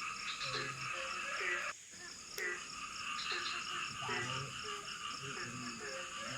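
Rainforest night chorus: frogs calling repeatedly in short croaks over a steady, dense insect buzz. The sound dips briefly about two seconds in.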